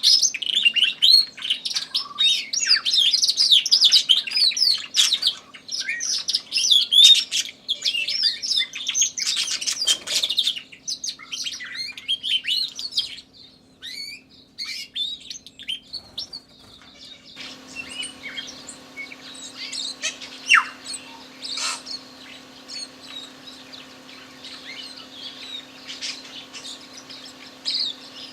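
Domestic canary singing a rapid, continuous warbling and trilling song for about the first 13 seconds, then only scattered, quieter notes, with a tui singing in the background. A steady low hum runs underneath and gets louder about two-thirds of the way through.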